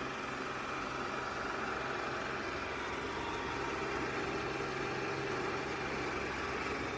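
Yeedi M12 PRO+ robot vacuum running with a steady whir from its suction motor and brushes.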